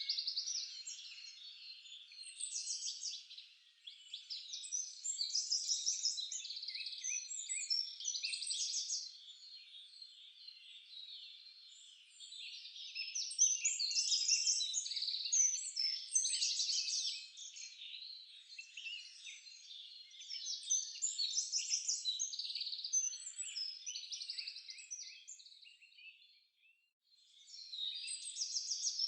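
Several songbirds singing at once: a dense, overlapping chorus of quick high chirps and trills, with a brief lull near the end.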